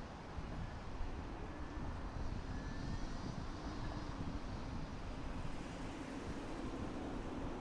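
Airbus A330-200 airliner's twin Pratt & Whitney PW4000 turbofans on approach to land, a steady jet rumble with faint engine whines gliding slowly in pitch, and wind on the microphone.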